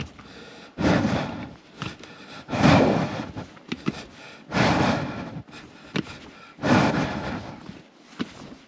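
A person breathing hard: four long, noisy breaths about two seconds apart, with light clicks in between.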